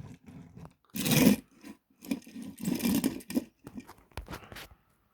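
Irregular rustling and scraping of objects being handled, in uneven bursts, loudest about a second in.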